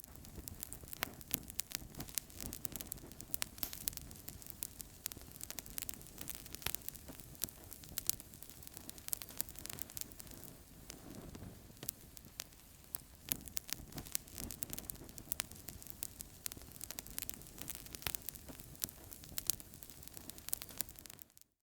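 Wood fire crackling in a fireplace: frequent sharp pops and snaps over a steady hiss of burning logs. The sound cuts out briefly near the end.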